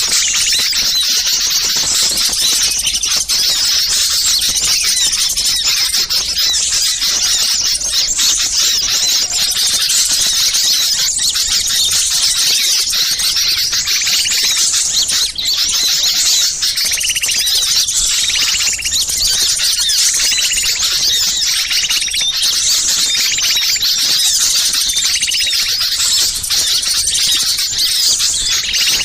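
Dense chorus of many small songbirds chattering and chirping at once in high, agitated calls with no break. It is a 'ribut' (noisy, agitated) bird-lure recording, the kind of excited chatter played to draw wild small birds in.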